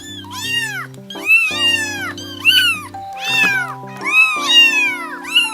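Kittens meowing over and over, a quick run of high-pitched arched meows that often overlap, set over background music of long held notes.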